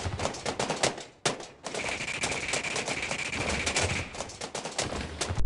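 Rapid automatic gunfire in two long bursts with a short break about a second in, a steady high whine sounding through the middle of the second burst.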